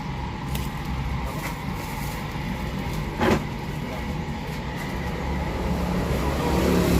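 Steady rumble of road traffic passing, growing louder near the end, with one short sharp clack a little over three seconds in.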